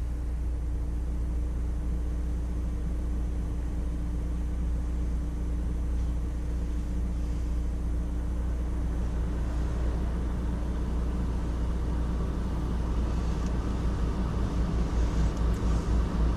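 2016 Mazda CX-9's engine running at a steady idle, heard from inside the cabin: a steady low rumble with a faint constant hum above it.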